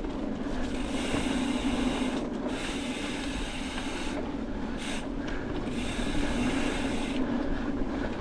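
Mountain bike riding along a dirt trail: tyres rolling and scrubbing over the ground in a steady rough noise.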